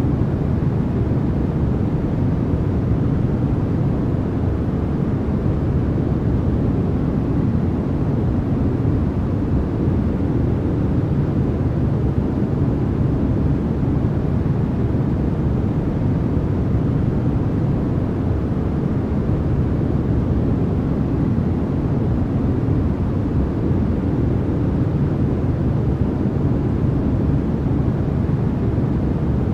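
Continuous generated noise: an even, unchanging hiss weighted toward the low end, so it sounds more like a deep rumbling rush than a bright hiss.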